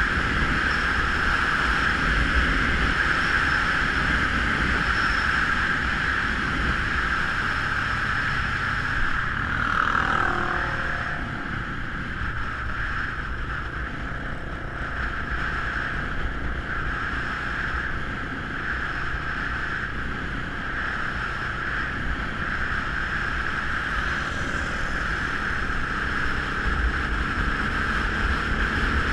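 250 cc scrambler motorcycle engine running under way, with wind buffeting the microphone. The engine note falls about ten seconds in, then stays a little lower before picking up again near the end.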